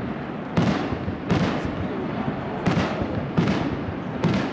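Japanese aerial firework shells bursting: five sharp bangs in quick succession, each trailing off in a fading rumble.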